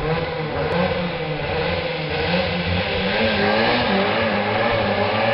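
Honda Integra rally car engine revving hard through the gears as it approaches, growing louder toward the end.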